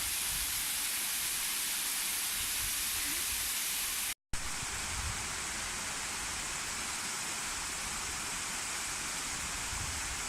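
Waterfall on a mountain stream, water falling and rushing in a steady, even hiss. It breaks off for a moment about four seconds in, at a cut, then carries on.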